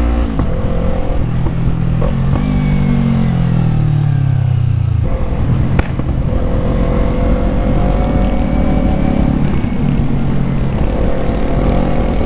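Yamaha MT-03 motorcycle engine heard from the rider's seat. Its pitch falls steadily for a few seconds as it slows, then about five seconds in it picks up again and runs on with small rises and falls in revs.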